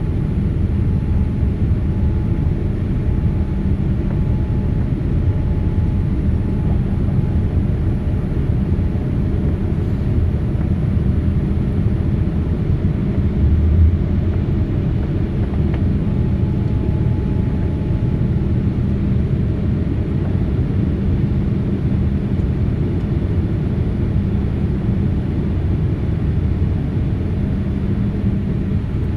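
Steady low rumble inside a jet airliner's cabin before takeoff, engines running and air conditioning hissing, with one short low bump about halfway through.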